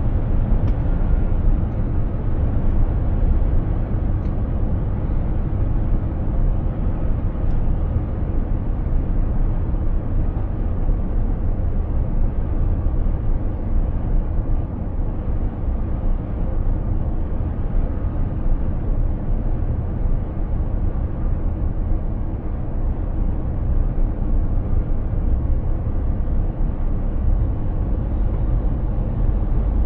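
Mercedes-Benz Actros heavy truck on the move: a steady low rumble of engine and road noise, with no marked change in pitch or level.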